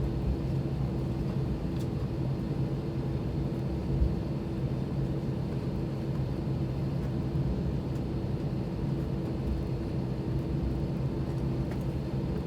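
Airbus A320 cabin noise with its IAE V2527-A5 turbofans at idle before the takeoff roll: a steady hum with a low rumble, and one thump about four seconds in.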